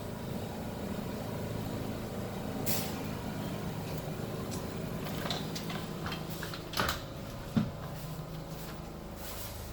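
R62 subway train running, a steady rumble and hum with a few sharp clanks, the loudest about seven and a half seconds in.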